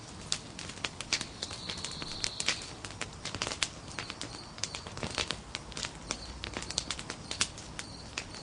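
Nodya log fire crackling, with frequent irregular sharp pops and snaps over a low steady hiss. A faint high whistle comes and goes, the longest stretch about two seconds in.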